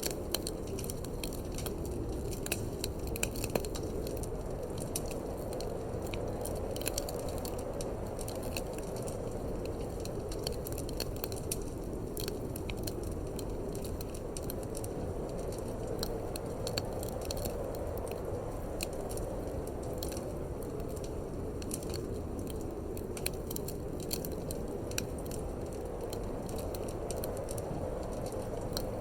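Wood fire in a fireplace crackling, with frequent irregular sharp snaps and pops, over a steady low rushing of wind.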